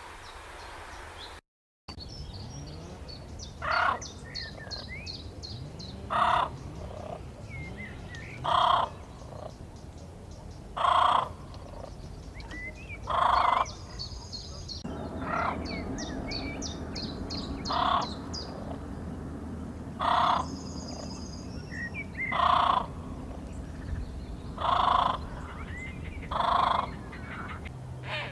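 A large bird calling loudly about eleven times at an even pace, roughly every two and a half seconds, with each call short and harsh. Small birds chirp thinly behind it.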